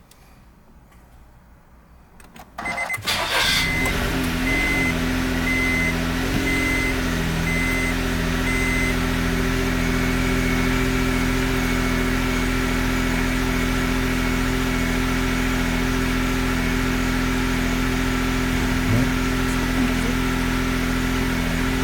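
Honda N-BOX's three-cylinder kei-car engine starting: after about two and a half seconds of quiet the starter cranks briefly, the engine catches with a short rise in revs and then settles into a steady idle. An intermittent beeping tone sounds for several seconds after it starts.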